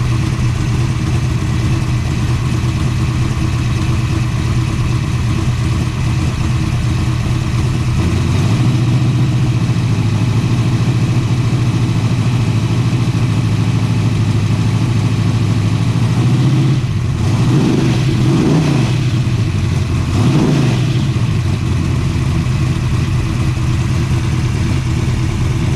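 Mopar 512 stroker big-block V8 idling in a 1968 Plymouth Barracuda drag car. The idle steps up about eight seconds in. About two-thirds of the way through it is revved in a few quick blips that rise and fall.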